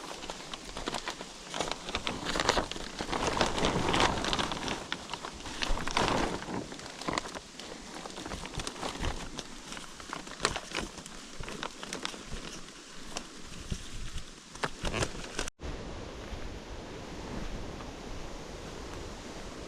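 Irregular rustling and crackling, as of handling or moving through leaves and brush, with louder swells near the start; after an abrupt cut a little past the middle, a steady outdoor hiss.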